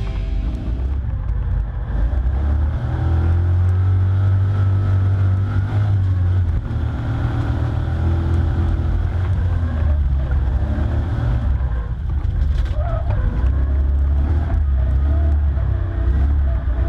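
LS2 V8 engine of a drift-built Toyota Tacoma X-Runner running hard, its revs rising and falling repeatedly as it drifts, with a heavy low rumble.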